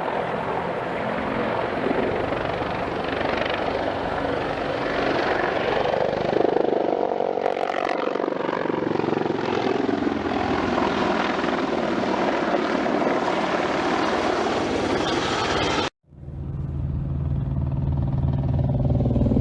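Low-flying military helicopters passing close by, a loud steady rotor and turbine drone whose pitch falls partway through as they go past. About sixteen seconds in the sound cuts off abruptly and gives way to a lower, steadier drone.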